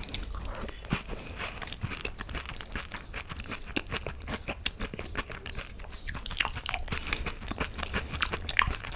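Crisp food bitten, crunched and chewed up close to the microphone, with dense, irregular crunches throughout.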